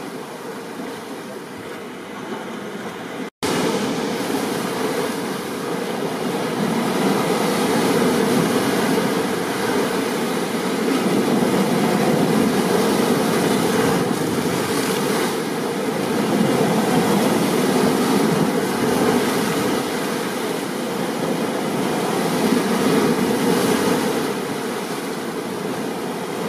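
Steady rushing noise of rain and ocean surf in a storm, swelling and easing slowly. It cuts out for an instant about three seconds in and comes back louder.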